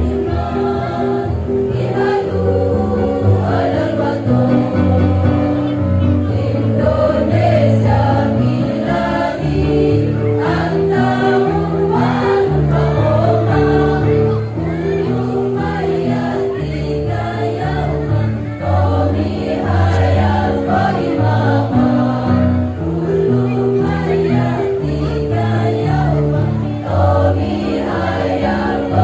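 A women's choir singing an Islamic devotional song in unison over backing music with steady bass notes.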